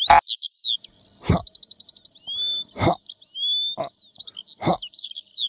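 High, rapid bird-like chirps and short trills, some rising and some falling in pitch, with a dull thump about once a second.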